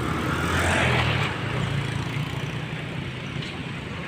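A vehicle engine running steadily, with a low hum and road noise.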